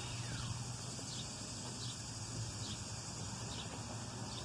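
Outdoor ambience: a bird giving short, downward-sliding chirps about once a second over a steady, high-pitched background hiss and a faint low hum.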